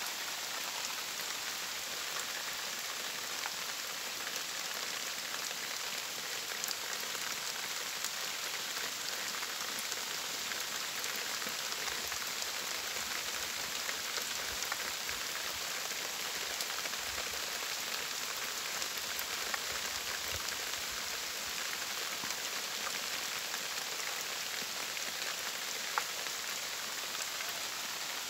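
Steady rain falling, a continuous even hiss with scattered close drop ticks and one sharper drop near the end.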